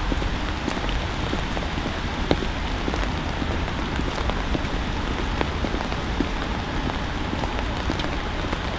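Steady rain mixed with wet snow falling, with scattered drops ticking sharply on nearby surfaces over a constant low rumble.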